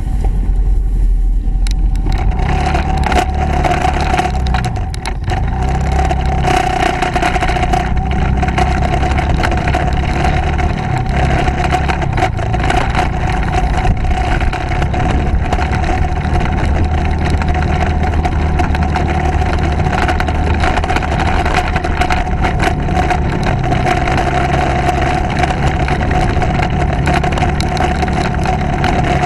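Motorcycle running steadily while being ridden, with a constant whine held through the ride.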